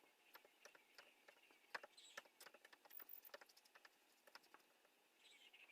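Faint, irregular light clicks and taps, with faint wild birds chirping in the background, most clearly near the end.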